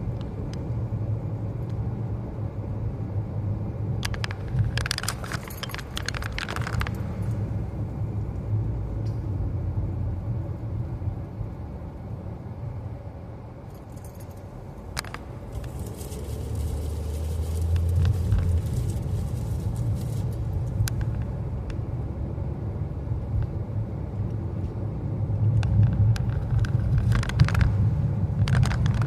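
Steady low road and engine rumble inside a moving car, easing off about halfway through and building again, with a few brief rattles.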